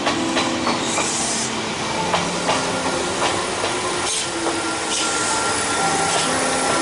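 Electric train running, with a steady hiss and scattered clacks over the rail joints, mixed with background music of sustained notes.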